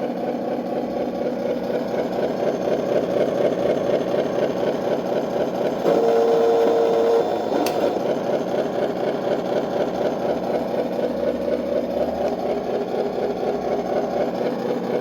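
Scale model Scania 770S truck's sound unit playing a V8 engine idling with an even rhythmic beat. About six seconds in, a single steady horn note sounds for just over a second.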